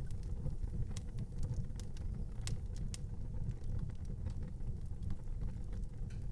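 Fire burning in an outdoor fireplace: a steady low rumble with scattered sharp crackles and pops, the loudest two coming about two and a half and three seconds in.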